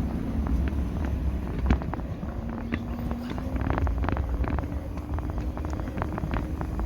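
Riding an electric motorbike: low road and wind rumble on the microphone, with a faint hum that rises slightly in pitch about two seconds in and many small rattling clicks from the bike.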